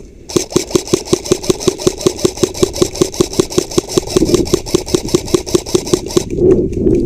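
Airsoft rifle firing a long full-auto burst, about seven shots a second, that stops about six seconds in.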